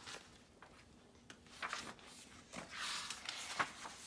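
A paper picture book being handled and its page turned: soft paper rustling with a few light clicks, the rustle strongest a little before the end.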